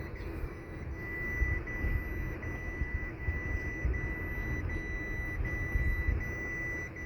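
Low rumble of a car on the move, with a thin, steady high-pitched electronic tone above it.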